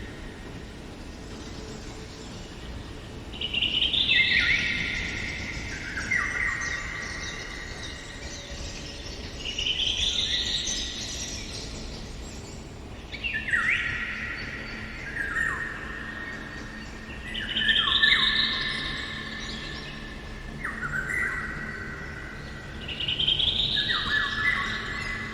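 A songbird singing a repeated phrase that falls in pitch in steps, one phrase every three to four seconds.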